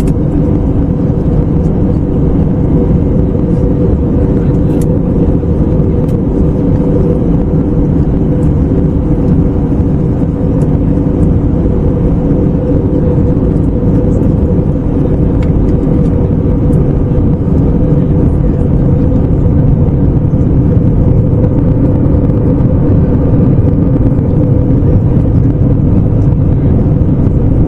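Steady cabin drone of an Airbus A321neo in flight: engine and airflow noise from its Pratt & Whitney PW1100G geared turbofans, a deep rushing sound with a few steady hum tones in it.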